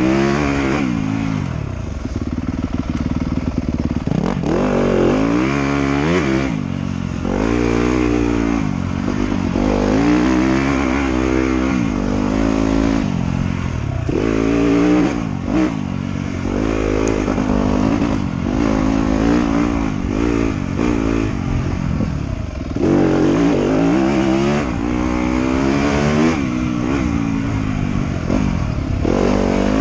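Trail motorcycle engine running under varying throttle, its pitch repeatedly rising and falling every second or two as it revs up and drops back.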